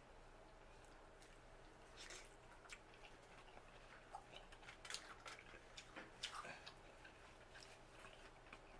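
Faint eating sounds of a seafood boil: scattered soft clicks and smacks of chewing, starting about two seconds in and coming most thickly in the middle.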